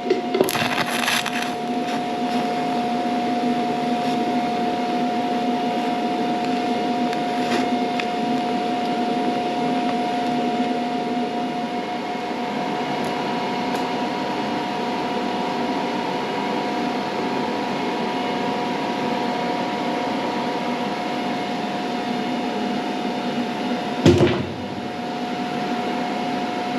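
TIG welding arc on a steel seat frame, buzzing steadily with a constant hum for the whole weld. A sharp crackle comes just after the start and a click about 24 seconds in.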